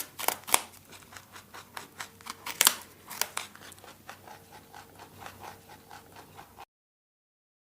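Rabbit chewing, a quick irregular run of small crisp crunches and clicks that stops abruptly about a second before the end.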